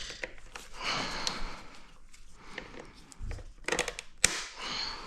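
Small scattered clicks and taps of pliers working at a stuck connector, with a few breaths between them; one sharp click a little past four seconds in.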